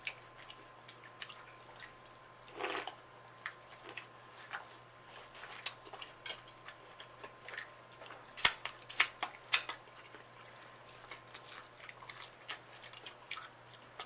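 Close-miked eating of corn on the cob: wet chewing with mouth clicks and smacks. A run of louder smacks comes about two thirds of the way through.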